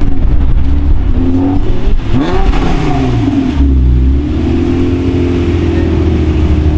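Car engine running loudly and being revved: its pitch rises and falls a few times around two to three seconds in, then holds steadier.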